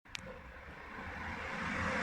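A road vehicle approaching, its rushing noise and low rumble rising steadily, after a sharp click at the very start.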